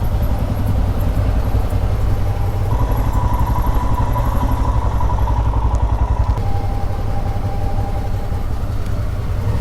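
Motorcycle engine running at low speed, a steady throb of firing pulses close by.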